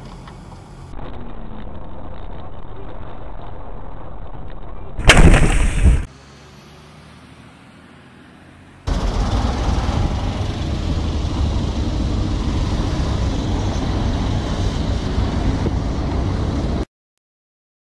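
Dashcam recordings of car interiors with steady road and engine noise, joined by abrupt cuts. About five seconds in comes one very loud, sudden crash of a vehicle collision lasting about a second, and near the end the sound cuts off abruptly.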